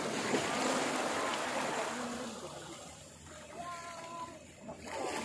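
Running, splashing water, loudest over the first two seconds, with a short high pitched call about three and a half seconds in.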